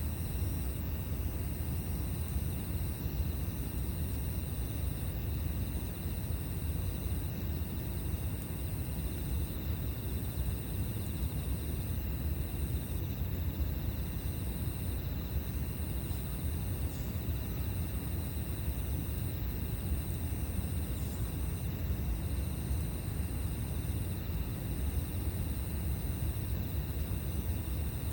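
Campfire ambience outdoors: a steady low rumble with one or two faint crackles, over a thin high whine broken by short gaps about every two seconds.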